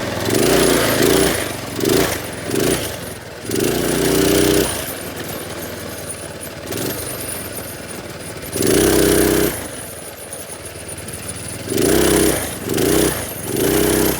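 Small minibike engine blipped repeatedly: about eight short revs, some longer, with the engine settling back to a lower steady run between them.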